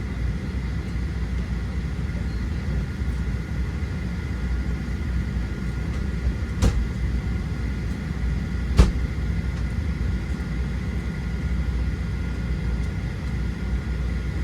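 Steady low rumble and a faint steady whine inside a Boeing 737-700 passenger cabin before pushback. Two sharp clicks or knocks come about two seconds apart, near the middle.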